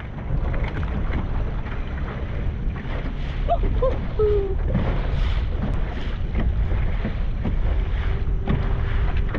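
Strong wind buffeting the microphone on a small boat rocking in choppy water, a steady low rumble throughout, with a few short pitched sounds about four seconds in.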